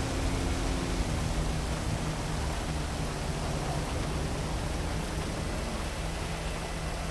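Heavy rain falling in a steady, even hiss, with a low city rumble and hum underneath.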